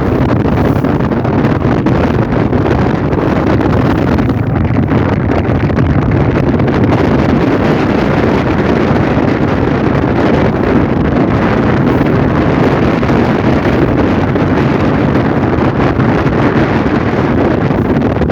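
Wind buffeting the microphone over the steady running of a motorboat, loud and unbroken throughout.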